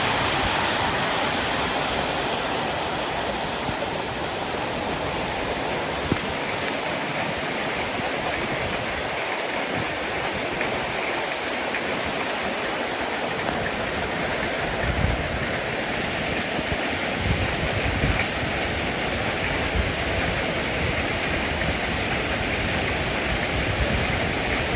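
Heavy rain pouring down in a steady, dense hiss. From about halfway, low rumbling surges come and go underneath it.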